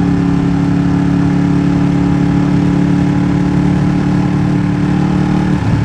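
Ducati Streetfighter V2's 955 cc L-twin engine running at steady revs through a MIVV exhaust with the dB killer removed. Near the end the note breaks briefly and settles slightly lower.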